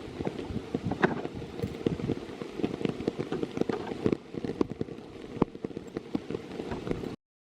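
Rain falling close by, a dense, irregular patter of drops ticking against nearby surfaces. It cuts off suddenly near the end.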